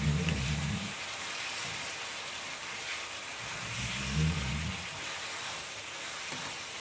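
Stir fry of pork and vegetables sizzling steadily in a hot pan, with a spatula stirring and scraping through it twice: once right at the start and again about halfway through.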